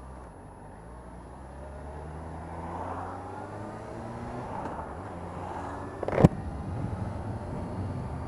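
Motorcycle engine ticking over, then revving up as the bike pulls away, its pitch climbing. A single sharp knock about six seconds in is the loudest sound, followed by a rougher, noisier engine and road sound.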